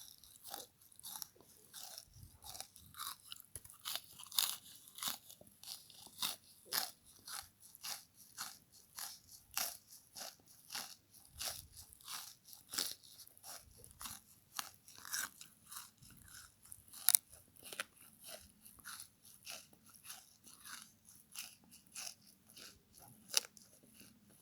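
Close-up chewing of a frozen bath sponge scrubber: a steady run of crisp icy crunches, about two to three a second, with one sharper, louder crunch past the middle.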